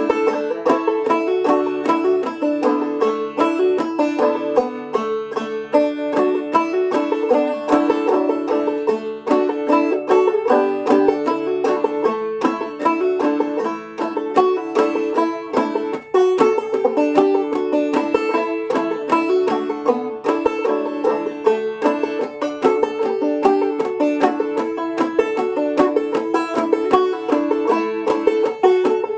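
Five-string open-back banjo, a Deering Vega Senator in double D tuning, played clawhammer style: a fast, steady run of plucked melody notes with a drone string ringing under them.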